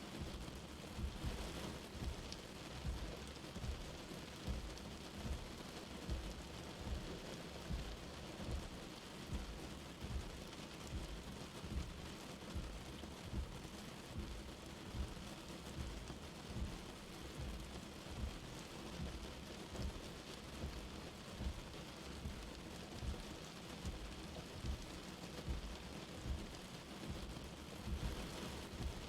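Light rain falling, an even steady hiss, with soft low thuds repeating a little more than once a second.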